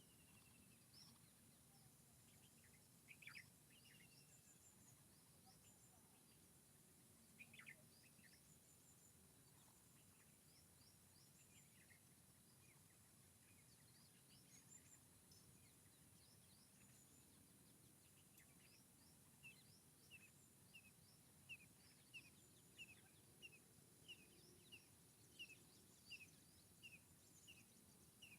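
Faint forest birdsong: scattered high chirps over a soft steady background hiss, with a couple of louder calls early on. From about twenty seconds in, one bird repeats a short falling note roughly every two-thirds of a second.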